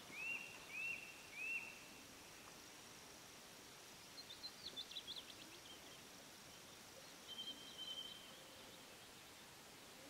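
Faint birdsong: three short rising-and-falling calls in the first two seconds, a quick run of high notes about four seconds in, and a short trill near eight seconds, over a quiet outdoor background.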